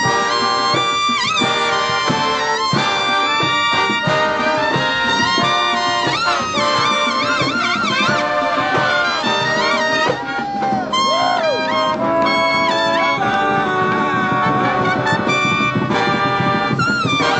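College band of trumpets, trombones and saxophones playing a lively tune, with notes that bend and waver in the middle stretch.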